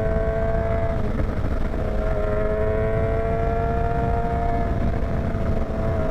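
Motorcycle engine running under way at a fairly steady pitch that creeps up slightly, dipping briefly about a second in and again near the end, over heavy wind rumble on the microphone.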